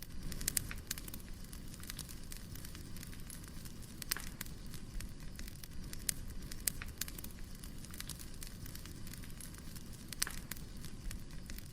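Wood fire burning: a steady low rumble with irregular sharp crackles and pops from the burning firewood.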